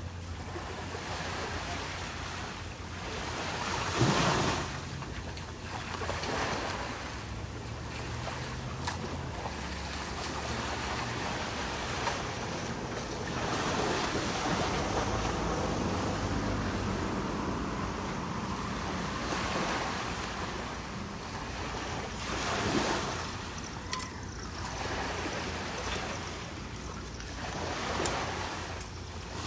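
Ocean surf washing in on the beach, a steady rush that swells and fades in surges, loudest about four seconds in and again twice near the end.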